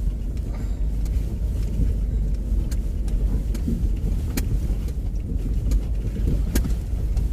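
Car driving over a rough, bumpy road, heard from inside the cabin: a steady low rumble with a few sharp knocks and rattles from the jolts.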